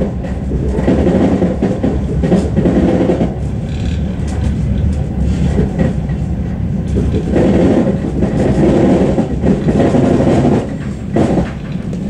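Commuter train running at speed, heard from inside the carriage: a continuous loud rumble of wheels on the rails, rising and falling a little.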